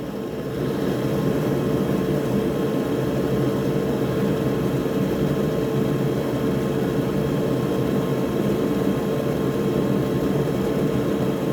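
Steady whir of a soldering fume extractor's fan, with a constant hum running through it.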